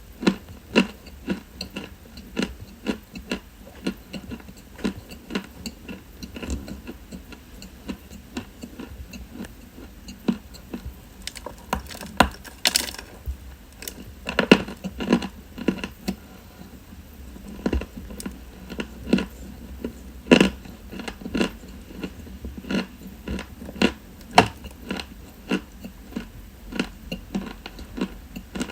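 Close-miked chewing of dry white chalk: a steady run of sharp, crisp crunches, about one or two a second. One especially loud, crisp crunch comes near the middle.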